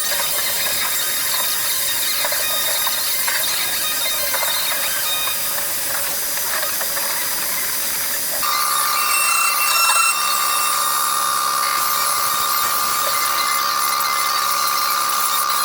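A battery-powered power tool running steadily with a hissing mechanical noise. About eight seconds in, a steady whine from its motor appears and holds.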